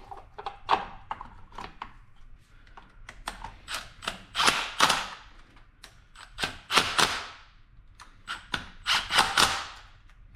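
Socket ratchet clicking in short bursts of quick strokes, several times over, tightening the spark plugs back into the engine.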